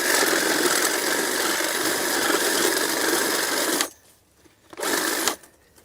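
Electric power saw running while cutting through brush for about four seconds, cutting off abruptly, then a short half-second burst near the end.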